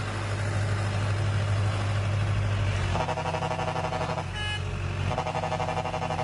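Heavy truck engine running steadily, its tone shifting higher about three seconds in.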